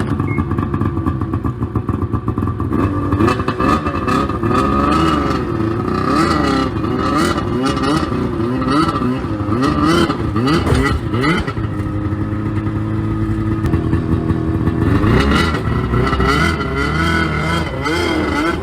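A motor vehicle engine running, revved up and down again and again so its pitch keeps rising and falling, then running steadier for a while before picking up again near the end.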